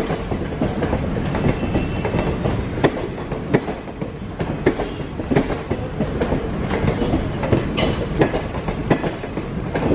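Indian Railways express passenger coaches rolling past as the train pulls out of the station: a steady wheel rumble with irregular clicks and clacks as the wheels cross the rail joints.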